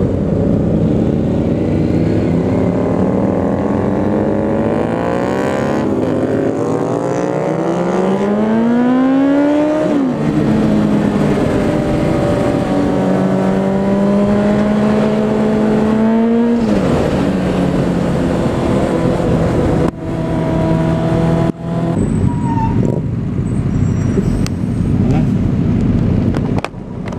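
Motorcycle engine accelerating under the rider's helmet camera, its pitch rising for several seconds and dropping sharply at gear changes about ten and sixteen seconds in, then running steadier, with wind and road noise underneath.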